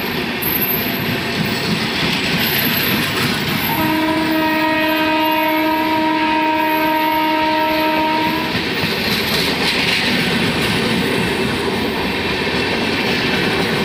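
Passenger express train's coaches passing close by at speed, with a steady rushing rumble and the clickety-clack of wheels over rail joints. About four seconds in, a single-note train horn sounds and is held steadily for about four and a half seconds.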